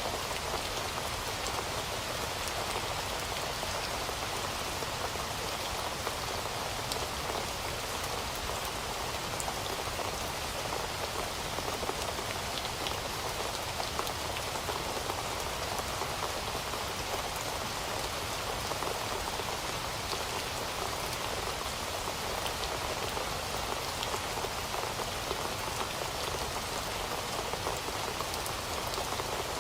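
Heavy rain falling steadily, a dense even hiss of rain with the fine patter of individual drops striking a surface.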